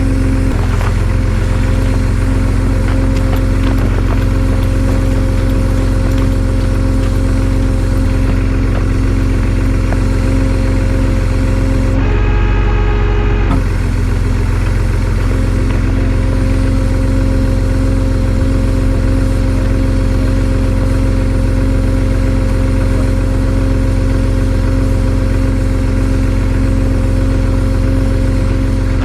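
Tow truck engine idling steadily, with a constant low hum, set up to winch. About twelve seconds in, a brief pitched sound lasts about a second and a half.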